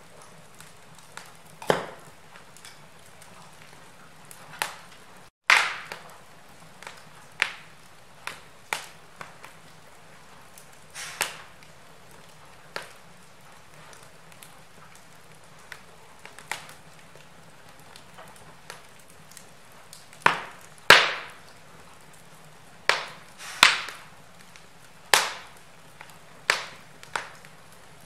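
Wood fire crackling in a fireplace: irregular sharp pops and snaps over a low steady hiss, with a cluster of the loudest pops in the last third.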